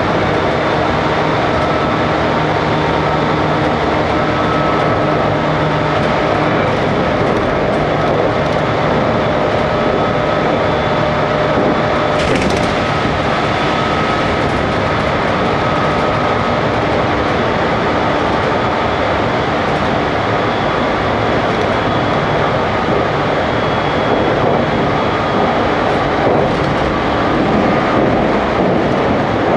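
In-car running noise of a JR Kyushu 813 series (100 subseries) electric train under way: a steady rumble of wheels on rail with faint steady whining tones, and a brief hiss about twelve seconds in.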